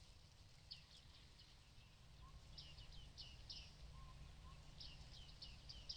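A small bird chirping: quick runs of short, high notes in three groups, about one every two seconds, over a faint steady low rumble.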